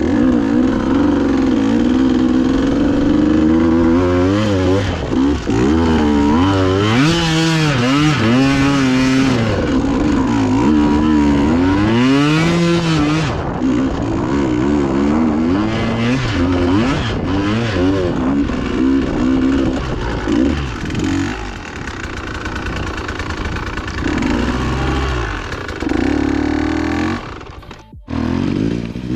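Dirt bike engine revving up and down as it is ridden along a trail, its pitch climbing and falling again and again with the throttle, most strongly a few seconds in. The engine briefly drops away near the end.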